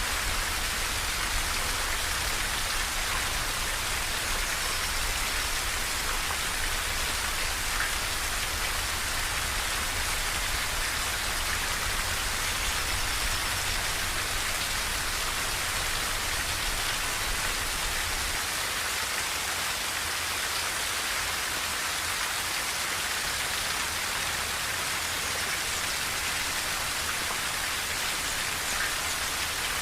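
Steady rain pattering on a tin roof, an even hiss of drops with a low rumble underneath that eases off about two-thirds of the way through.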